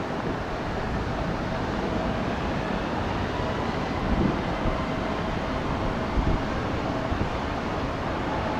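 Jet airliner's engines running, a steady rushing noise with a faint whine.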